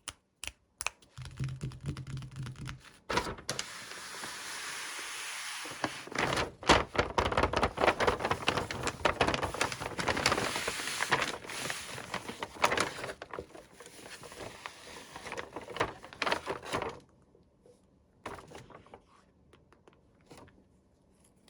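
Hands unwrapping toy packaging: rustling and crinkling with many small clicks and taps. It stops about seventeen seconds in, leaving only a few faint taps.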